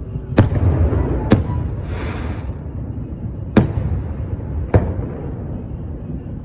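Fireworks going off: four sharp bangs, two in quick succession and then two more a couple of seconds later, each trailing off in a low rumble, with a brief hiss in between.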